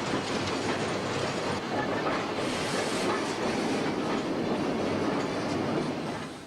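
A train running along the rails, a steady rattling rumble that cuts off abruptly at the end.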